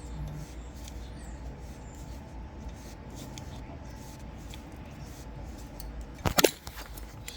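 Quiet steady low hum, broken about six seconds in by a brief cluster of sharp knocks or clatter.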